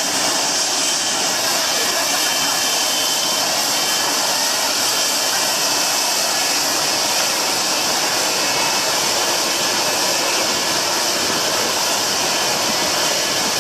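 Jet airliner engines at takeoff thrust: a loud, steady roar and hiss of jet blast.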